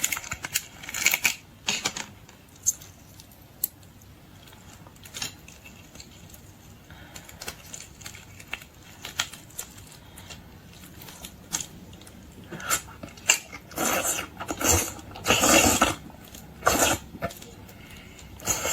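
Close-up eating sounds of shrimp: scattered small clicks and crackles, then a run of louder chewing and mouth noises from about twelve to seventeen seconds in.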